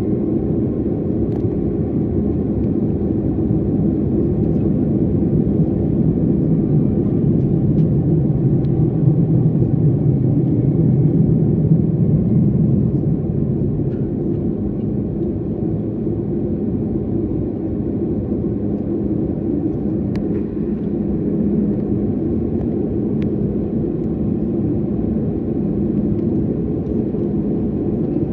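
Steady low drone of an airliner's jet engines and rushing air heard inside the passenger cabin, swelling slightly for a few seconds in the middle.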